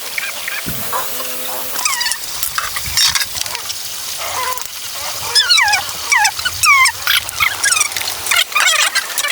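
Many short, high, sliding chirps or squeals from a group of small animals or birds, coming thick and fast in the second half, with one brief lower call about a second in.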